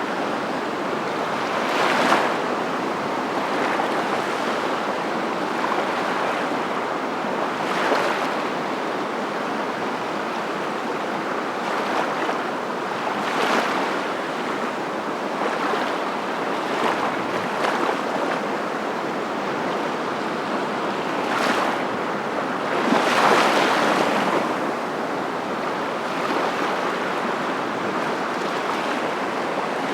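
Steady rushing water, with short louder splashes now and then; the biggest comes about 23 seconds in.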